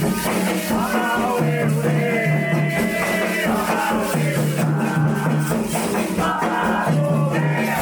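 Candomblé ritual music: rattles shaken in a steady rhythm under voices singing, with a held low tone that moves between two pitches.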